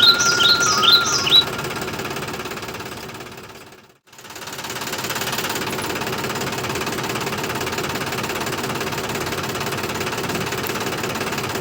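A motor running with a steady, rapid mechanical rattle, fading out at about four seconds and back in. Birds chirp over it for the first second and a half.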